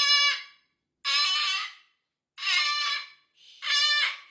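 Pet cockatoo yelling: four loud, harsh screams, each under a second long, about a second apart.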